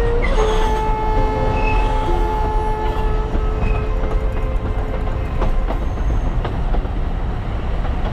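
Alishan Forest Railway train running with a steady low rumble, its wheels squealing on a curve in a long, held tone that fades about three seconds in, followed by a few faint clicks from the rails.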